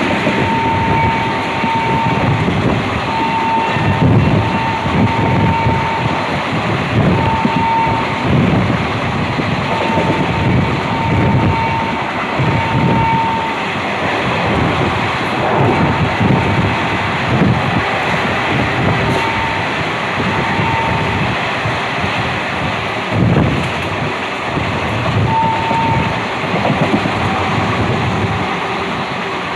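Passenger train running at speed, heard from on board: a steady rumble of wheels on rails with wind buffeting the microphone, and a thin high tone that comes and goes during the first half.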